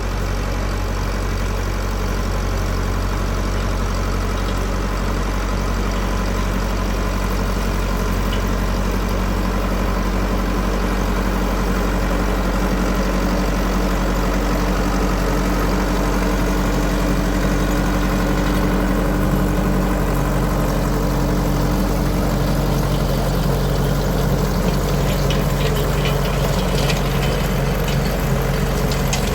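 An engine running steadily at a constant, idle-like speed, a loud even hum; its note shifts about two-thirds of the way through.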